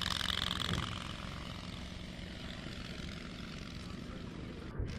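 Propeller aircraft engine running, fading in level over the first second, then steady and quieter, with a brief drop-out near the end.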